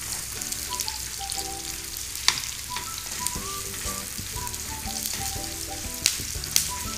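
Sliced onions and curry leaves sizzling in hot oil in a non-stick kadai as they are stir-fried, with a metal spoon knocking sharply against the pan about two seconds in and twice near the end.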